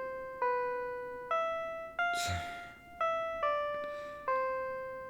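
Background music: a slow melody of single piano notes, a new note about every second, each one ringing and fading. About two seconds in, there is a short breathy exhale.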